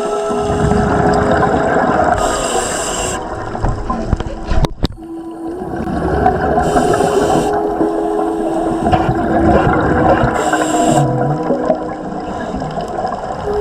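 Scuba diver breathing through a regulator underwater: three short inhalation hisses about four seconds apart, with the rumbling bubble noise of exhalations between them. A single sharp click about five seconds in.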